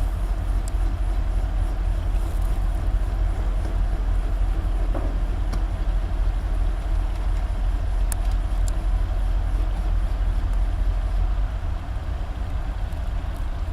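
Heavy diesel engines of recovery machinery running steadily under load while dragging a stuck 35-ton excavator through deep clay, with a few faint clicks.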